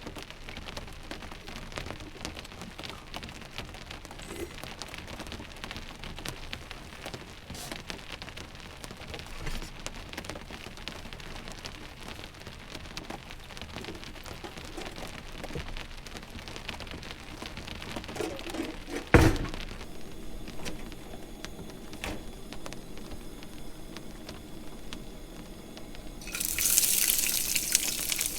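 Steady rain falling on the truck topper's roof, a fine even hiss of drops. About two-thirds of the way through there is one sharp knock, and near the end a louder rushing hiss sets in.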